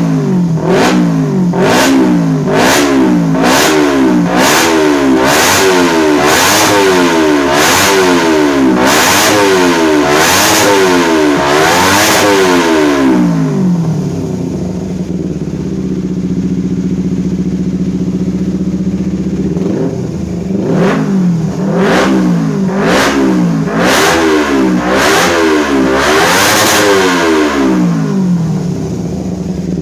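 Engine blipped through its exhaust in quick repeated revs, about one a second, then settling to a steady idle for several seconds before another run of quick revs and a return to idle.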